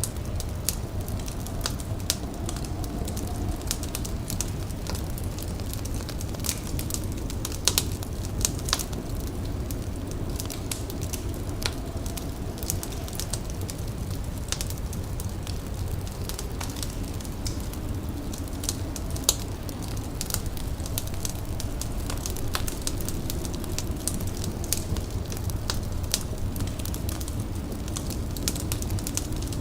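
Indoor fire crackling, with irregular sharp pops and snaps over a steady low rumble.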